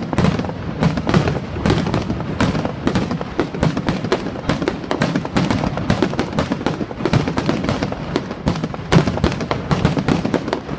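Fireworks going off continuously: a dense, irregular run of sharp bangs and cracks, several a second and overlapping, with no pause.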